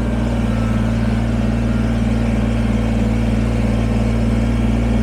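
Kubota BX23S sub-compact tractor's three-cylinder diesel engine running steadily as the tractor drives slowly over loose dirt to pack it down.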